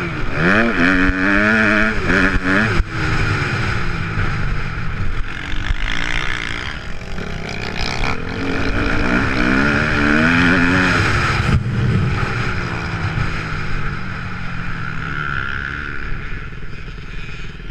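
Kawasaki KX250F four-stroke motocross bike's single-cylinder engine revving up and down again and again as the throttle is opened and closed.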